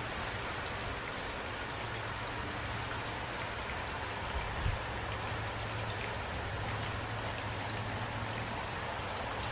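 Steady rain falling, with scattered single drops ticking on a surface over an even hiss and a steady low drone underneath; a brief low thump about four and a half seconds in.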